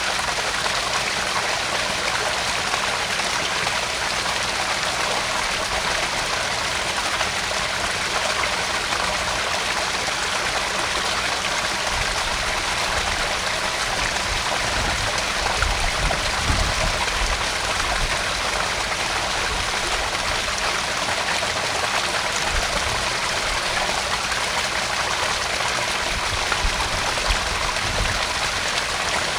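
Small garden pond waterfall splashing and trickling steadily into the pond. A low rumble comes and goes around the middle and again near the end.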